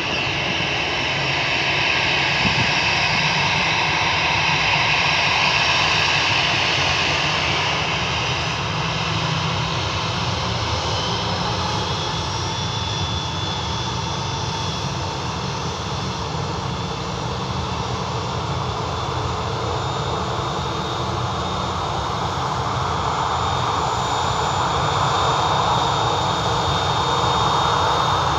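Jet airliner engines running loud and steady, the noise swelling slightly twice, with a thin high whine coming in partway through.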